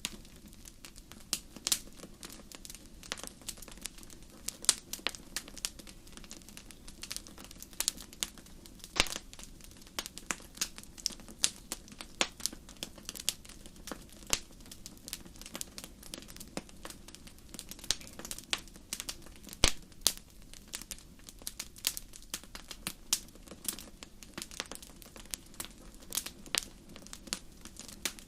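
Bonfire crackling: irregular sharp pops and snaps of burning wood over a low, steady rumble of the fire.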